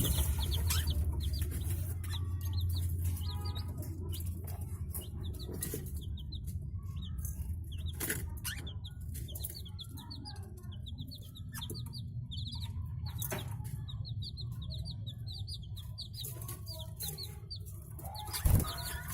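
Budgerigars chirping and chattering, long runs of short, quick high chirps, with a few sharp knocks and a steady low hum underneath.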